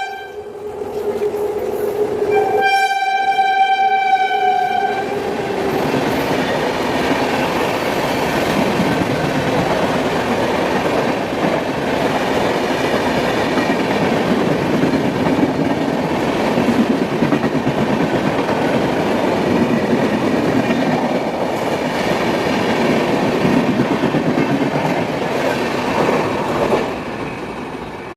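Indian Railways superfast express passing slowly: the locomotive horn sounds at the start, with a longer blast of about two and a half seconds, then the coaches rumble and rattle past steadily for about twenty seconds, fading near the end.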